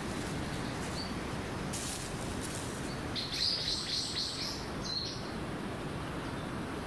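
Small songbirds chirping: a few short high chirps, with a quick run of chirps about three seconds in, over a steady outdoor hiss.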